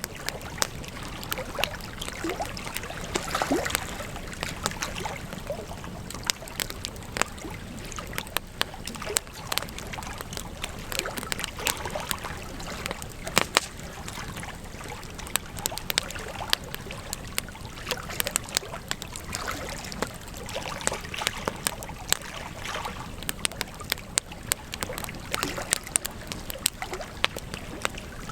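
Campfire crackling: a steady hiss of burning wood with frequent irregular pops and snaps, a few of them sharp and loud.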